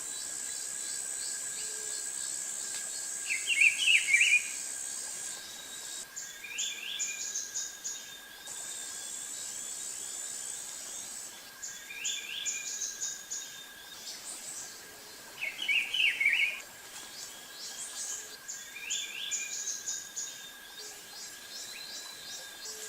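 Natural ambience: a bird calls in short phrases every few seconds over a steady high insect buzz that breaks into pulsing chirps, with the loudest calls a few seconds in and again around the middle.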